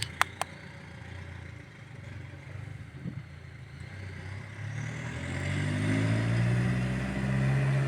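Garbage truck engine getting louder and rising in pitch about halfway through, then running steady, after two sharp clicks at the start.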